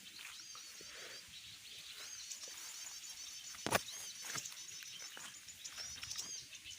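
Small birds chirping in a fast, high, continuous twitter of short repeated notes, the calls used as a lure for birds. A sharp click about halfway through.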